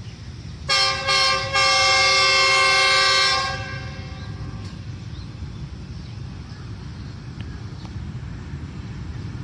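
Horn of a Pakistan Railways GEU20 diesel-electric locomotive: two short toots, then one long blast of about two seconds that fades away, followed by the steady low rumble of the train running through.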